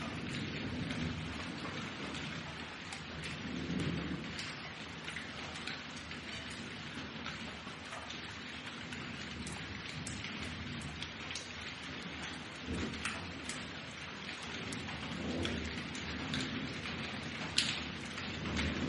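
Thunderstorm: steady heavy rain hissing and pattering on surfaces, with low rolls of thunder swelling and fading several times, and a sharp close drip or splash near the end.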